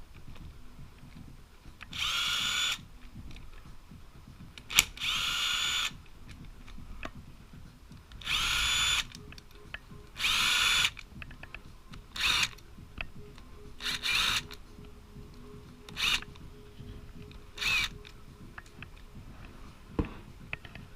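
Handheld power driver backing out engine crankcase bolts in about eight short bursts of motor whine, each spinning up and stopping within a second, with a sharp click or two between them.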